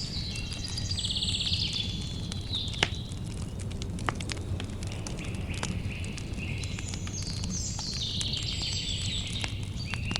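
Campfire crackling over a low rumble, with scattered sharp pops, the loudest about three and four seconds in. Above it a songbird sings two trilled phrases, one near the start and one from about seven seconds in.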